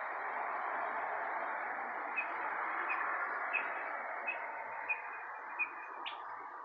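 A bird chirping, a run of short chirps about one every 0.7 seconds, with a louder chirp near the end, over a steady background hiss.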